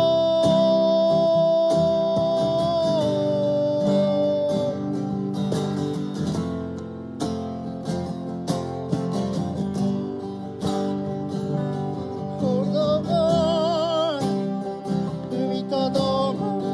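Acoustic guitar strummed steadily, with a singer holding one long note at the start that steps down slightly before fading, then a short sung phrase with vibrato about two-thirds of the way through.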